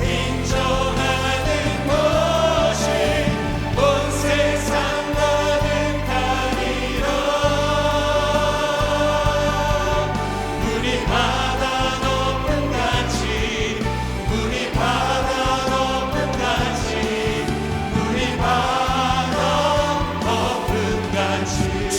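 Contemporary worship music from a live church praise band, with voices singing along.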